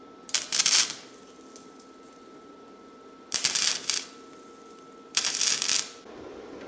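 Steel pieces being handled and clamped into a welded frame: three short bursts of metallic clattering and scraping, the first about a second in, the others near the middle and toward the end, with a faint steady hum between.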